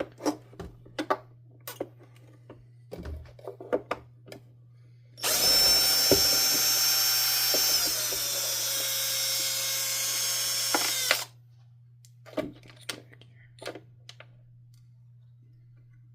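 Electric drill running for about six seconds, a steady whine whose pitch drops a step partway through, between scattered small clicks and knocks of parts being handled.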